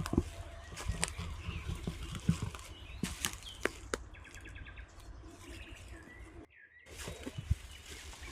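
Outdoor ambience with scattered small knocks and clicks. A short bird trill of quickly repeated high notes comes about four seconds in.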